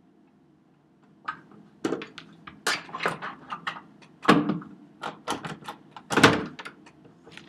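Hotel room door being worked at: a series of irregular knocks, clicks and thunks from the door and its lock, starting about a second in.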